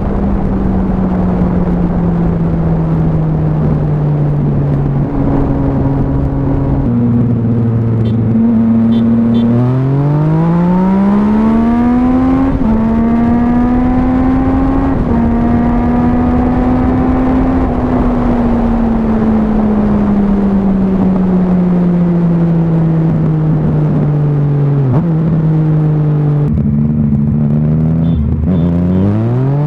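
Motorcycle engine with an aftermarket exhaust, heard while riding, over steady wind rush. The engine slows gradually, steps in pitch at gear changes, then revs up hard through the gears about ten seconds in, eases off for a long stretch, and revs up again near the end.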